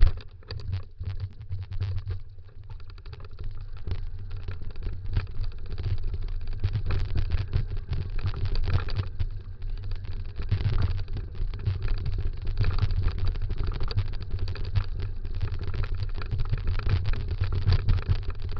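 Dog scooter's wheels rolling fast over a dirt trail: a continuous low rumble with dense rattling and crunching from the ground.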